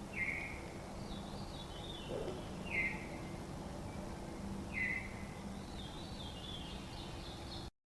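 A bird calling from the forest: a short falling call given three times, about two seconds apart, with fainter high chattering notes in between, over a steady low hum.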